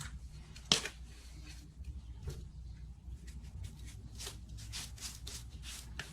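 Irregular light clicks, scrapes and rustles of objects being handled, with one sharp click about a second in, over a steady low hum.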